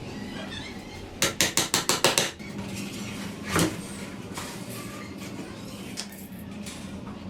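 Light hammer taps on a wooden stick frame: a quick run of about eight sharp knocks in about a second, then a single knock a little over a second later, over a steady low hum.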